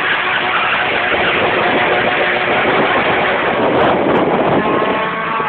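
Car engine running loudly, heard as a dense, steady rush of noise with a faint engine tone showing through in the second half.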